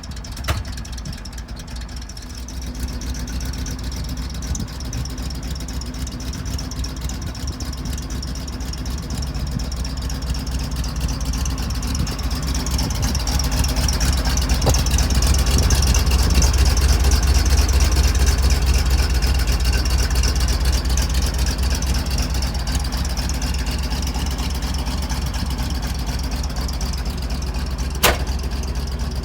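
1971 International truck's engine running, getting louder and rising in pitch through the middle, then easing back down. A sharp click comes near the end.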